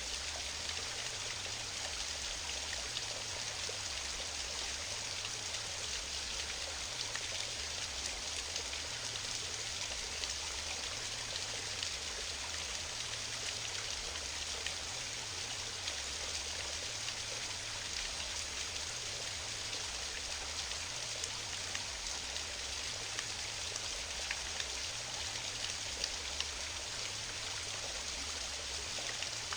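A waterfall pouring and splashing steadily into a stream: an unbroken rushing hiss with small scattered splashes.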